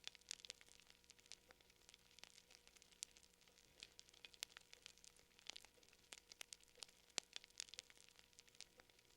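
Faint wood fire crackling, with irregular sharp pops and snaps scattered throughout.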